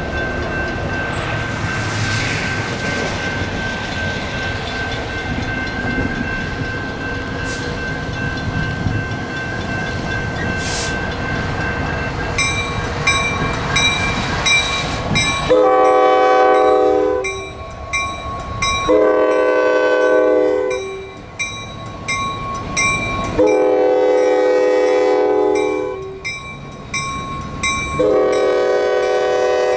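A train running past with a steady rumble. About halfway through, a locomotive air horn sounds four long chord blasts with short gaps between them.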